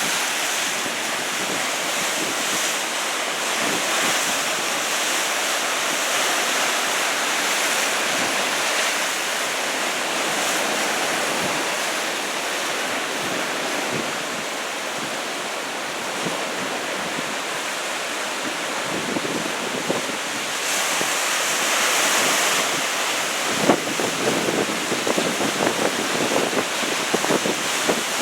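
Ocean surf from a 2 m typhoon swell, breaking and washing in a steady rushing noise that swells louder a little past the middle. Wind buffets the microphone, in choppy gusts near the end.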